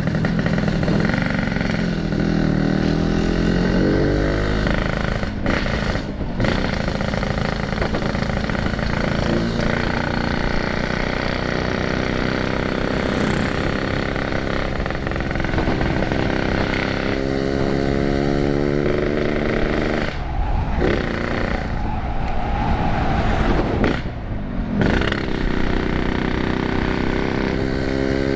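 Yamaha RX-King's 135 cc two-stroke single-cylinder engine, heard through a custom exhaust while riding. Its pitch rises through the revs several times and cuts off briefly a few times in between.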